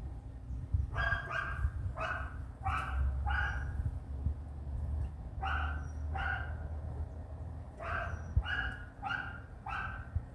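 An animal giving short, sharp calls in three quick bouts of four or five calls each, over a low steady rumble.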